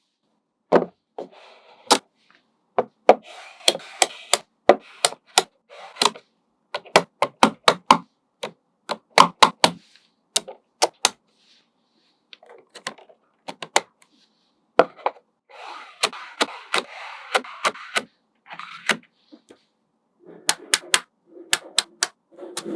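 Small magnetic balls clicking sharply as they snap onto one another, dozens of separate clicks, some in quick runs. Between the clicks come stretches of rattling and scraping as clusters of balls are moved about, the longest about two thirds of the way in.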